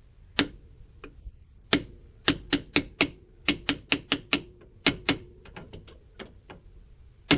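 Hammer tapping a 76 mm socket used as a driver to seat a new rear axle seal on a Toyota Tacoma: about fifteen sharp metallic strikes, some in quick runs of three or four, each leaving a short ring.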